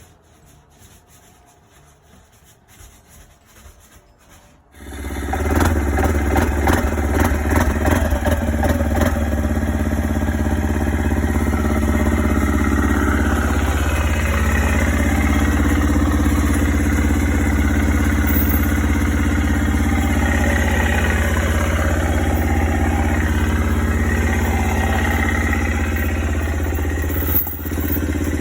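Vehicle running, a steady low engine drone with road noise, which cuts in suddenly about five seconds in after a faint stretch.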